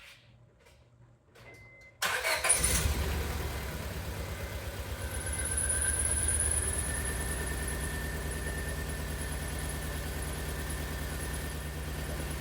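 A 2002 Honda Civic's four-cylinder engine is started about two seconds in, cranking briefly before it catches, then idles steadily. A high steady whine joins the idle from about five seconds in.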